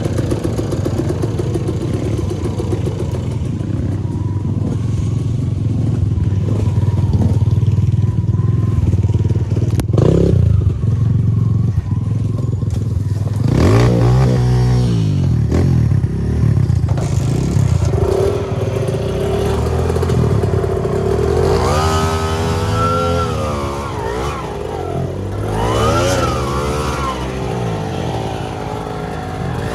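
Dirt bike engine running under load, steadier at first, then revving up and down again and again from about halfway on, with one sharp knock about ten seconds in.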